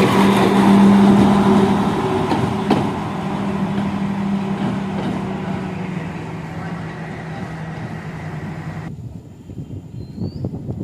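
Repowered Class S9 diesel multiple unit running past, its diesel engine giving a steady low drone that fades away, with a single sharp knock about three seconds in. The sound cuts off abruptly near the end, leaving a quieter background with a short high chirp.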